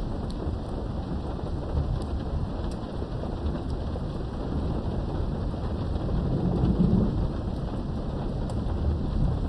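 Thunderstorm heard from behind a window: steady rain with a continuous low rumble of thunder that swells near the end, and scattered light drop ticks.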